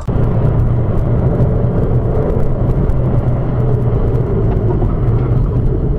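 A car driving: steady engine hum and road noise, picked up by a dashcam.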